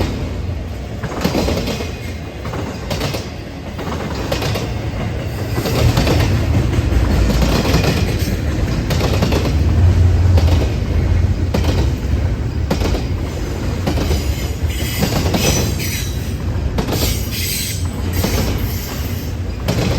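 Freight train cars rolling past at track side: a heavy rumble with the wheels clicking steadily over rail joints, and a high wheel squeal near the end.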